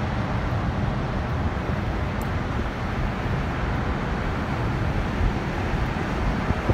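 Steady road and engine rumble of a car driving.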